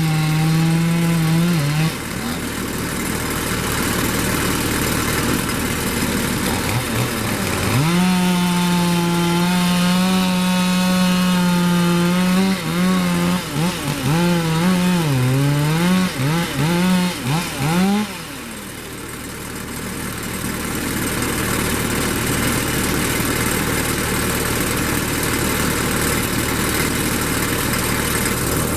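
Two-stroke chainsaw running at high revs and cutting wood. In the middle its engine whine wavers up and down repeatedly with load and throttle. For the last third the clear whine gives way to a steady rough noise of about the same loudness.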